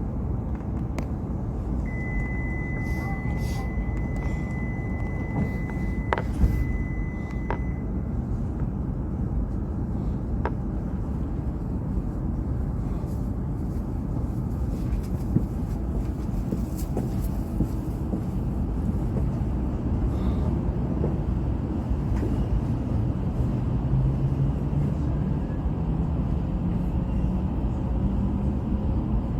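E5 series Shinkansen running, a steady low rumble as heard riding on board, with a thin steady high tone for several seconds early on and a low hum rising in pitch near the end.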